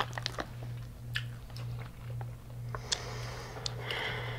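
Close-up chewing and biting of crunchy deep-fried food, with scattered sharp crunches and mouth sounds, over a steady low hum.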